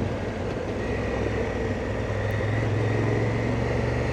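Honda Africa Twin motorcycle engine running steadily while riding, under a steady rush of noise; the engine note steps up slightly about two and a half seconds in.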